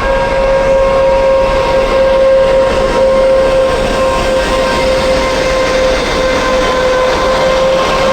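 Passenger train pulling out, its rolling noise running steadily under a held humming tone that dips slightly about two-thirds of the way in.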